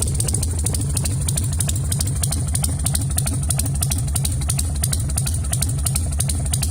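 Carbureted Harley-Davidson V-twin idling with its uneven, loping 'potato-potato' beat, a steady run of low pulses.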